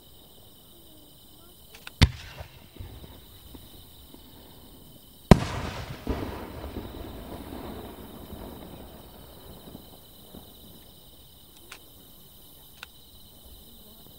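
Aerial firework shells bursting: a sharp bang about two seconds in, then a louder bang about five seconds in whose boom echoes and rumbles away over several seconds, with a few faint pops later.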